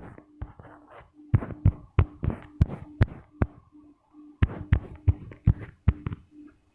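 Irregular fingertip or stylus taps and thumps on a tablet touchscreen while drawing, picked up close by the device's own microphone, over a faint, evenly pulsing low hum.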